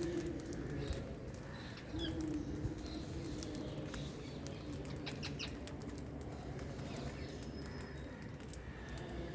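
Wild green parrots chirping in short calls, over many small scattered clicks.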